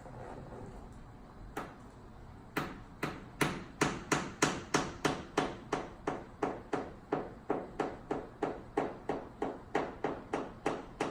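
African grey parrot knocking its beak against its mirror toy: a single knock, then a steady run of sharp knocks, about three a second.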